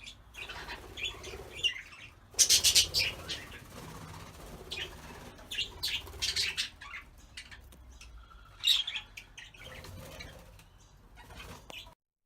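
Budgerigars flying about an aviary: bursts of wing flapping, loudest about two to three seconds in, with short chirps between.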